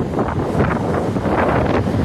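Strong gusting wind buffeting the microphone, a loud uneven rumble that swells and spreads higher toward the end.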